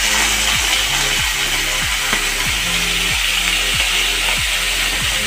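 Potato pieces sizzling as they fry in hot mustard oil in a kadhai, stirred with a steel ladle. Background music with a steady beat plays underneath.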